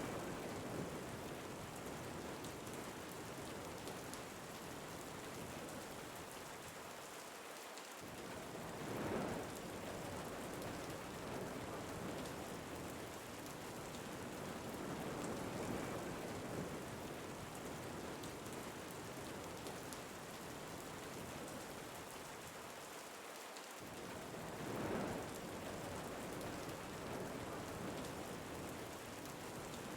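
Steady rain with wind, swelling and easing every several seconds.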